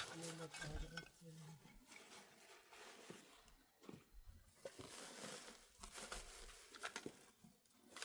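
Faint scattered clicks and rustling, like small objects being handled, with a brief low voice murmuring in the first second or so.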